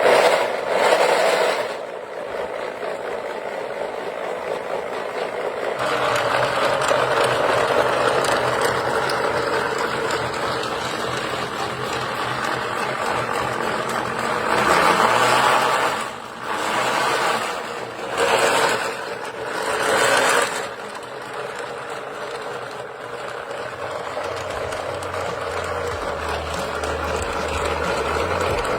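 Wooden model car running, its cordless-drill electric motor whirring and driving the wooden V8 mechanism with a steady mechanical rattle. The sound swells louder several times, as if the motor speeds up.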